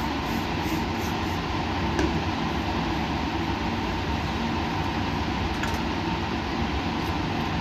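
Steady laboratory background noise: an even mechanical whoosh and hum, like ventilation and running equipment, with a few faint steady tones and a small click about two seconds in.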